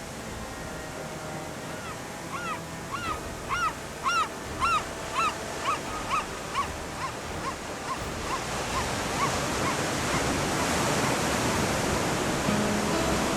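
A bird calling a series of about fifteen short arched notes, about two a second, that swell and then fade and drop slightly in pitch. A steady rushing of surf grows louder in the second half.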